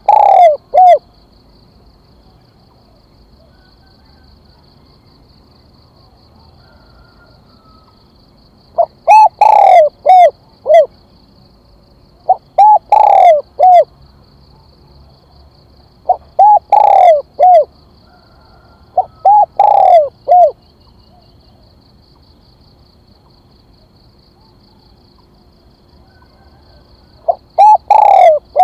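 Spotted dove cooing: loud phrases of three or four low, falling coo notes, repeated every few seconds with a long pause in the middle. This is the calling song used to stir up captive decoy doves.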